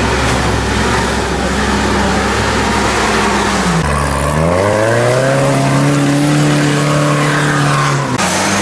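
UAZ-469 off-roader's engine revving hard while driving through deep mud. About four seconds in the engine note drops, then climbs over about a second and holds at a higher pitch. The sound changes abruptly about four seconds in and again near the end.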